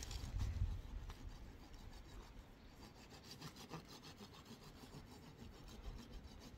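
Faint, quick, rhythmic scraping strokes, several a second, with a low rumble in the first second.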